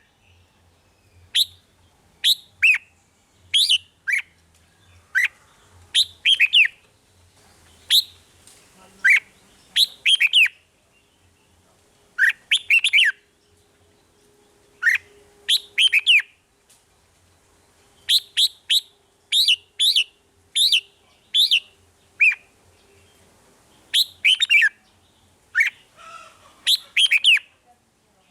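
Red-whiskered bulbul singing: short phrases of quick, sweeping whistled notes, repeated every second or two.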